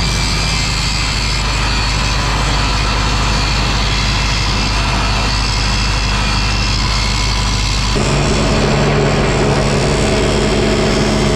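Angle grinder running steadily, beveling the edge of a broken steel part so a weld can penetrate it fully. Its sound shifts about eight seconds in.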